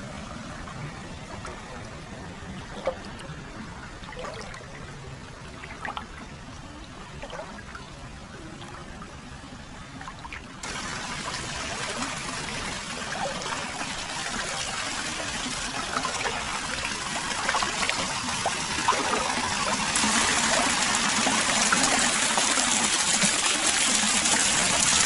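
Hot-spring water flowing steadily into an open-air foot bath, trickling and splashing, with a few faint drips. It gets louder in a step about ten seconds in and again near twenty seconds in.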